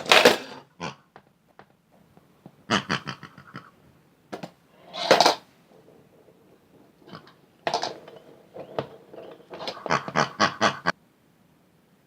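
Squeaky pig-like oinks and grunts in short bursts, about six of them, each a quick run of pulses.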